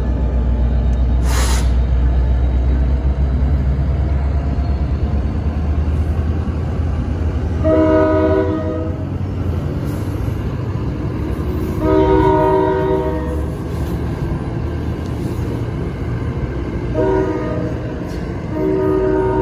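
NJ Transit diesel train with Comet V coaches rumbling past a grade crossing, the rumble easing as the rear cars go by. The multi-note locomotive horn sounds long, long, short, long, the standard grade-crossing signal. There is a short hiss about a second in.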